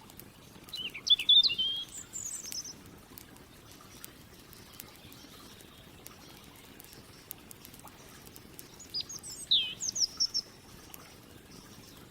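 A songbird sings two short, quick chirping phrases, one about a second in and another around nine seconds in. Between and under them a campfire crackles with scattered light pops.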